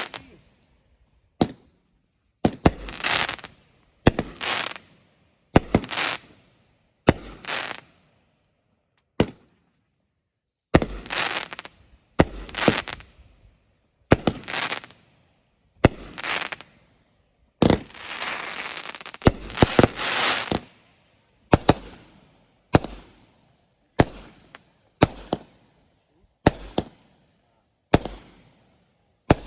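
Consumer fireworks going off shot after shot, about one sharp bang a second, each trailing off briefly, with a brief pause about 8 seconds in and a denser run of overlapping bursts about 18 to 20 seconds in.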